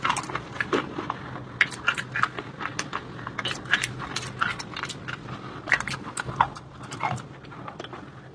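Close-up crunching and chewing of brittle white shale stone: irregular crisp cracks, several a second.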